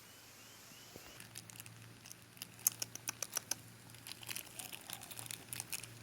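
Light, irregular crinkling and ticking, starting about a second in and growing busier, over a faint steady low hum.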